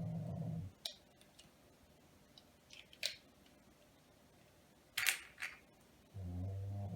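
Plastic Lego pieces clicking as they are handled and snapped together: a few sharp clicks spread out, the loudest a pair about five seconds in. A low steady hum sounds at the start and again near the end.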